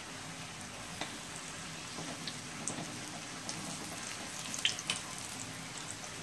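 Corn and shrimp fritters frying in a wok of very hot oil: a steady sizzle with scattered small pops and crackles, a few sharper pops about five seconds in.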